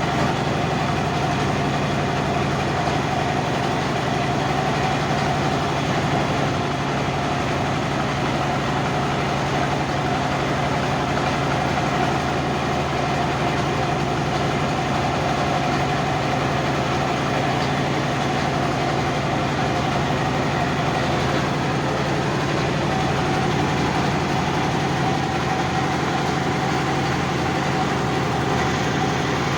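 Motorboat engine running steadily at a constant pitch, a continuous hum with a noisy wash over it.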